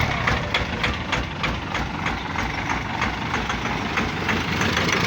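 Cummins ISF 2.8 four-cylinder diesel idling with a regular sharp knock, about four or five a second. The mechanic puts the knock down, most likely, to a leaking third-cylinder injector causing small hydraulic locks.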